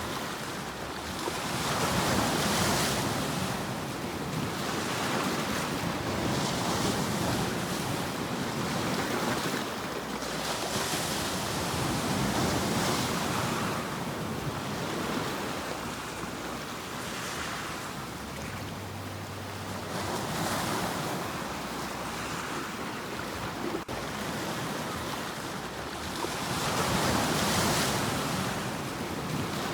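Ocean surf: waves breaking and washing in, the rushing noise swelling and fading every several seconds.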